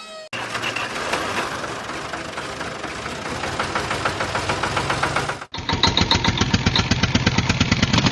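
Small engine of a mini tractor running with a rapid, even chugging beat. It cuts abruptly about five and a half seconds in to another take of the engine running with a sharper, faster beat.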